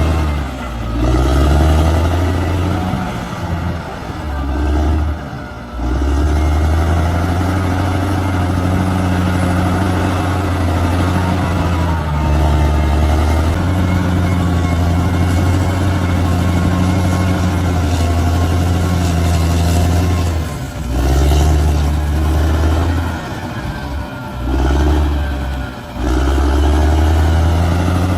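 Large bulldozer's engine running steadily at a low, heavy note. Its pitch and loudness dip and recover a few times, once near the start and again a little after the middle.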